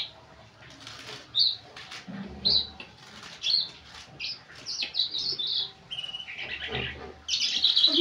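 Small caged bird chirping: short high chirps every second or so, crowding into a quick run near the end, with two brief low rustles in between.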